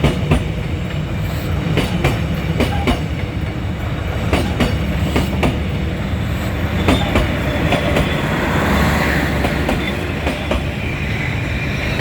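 Passenger train rolling past at speed: a steady low rumble with repeated clickety-clack of wheelsets crossing rail joints, with a brief rise of hissing about eight to ten seconds in.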